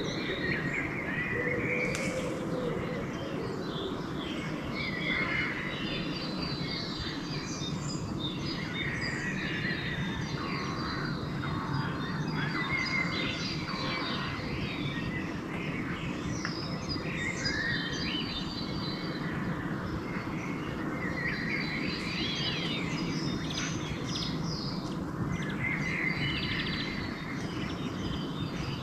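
Several songbirds singing and calling at once in a dawn chorus, with short overlapping trills and chirps, over a steady low background rumble.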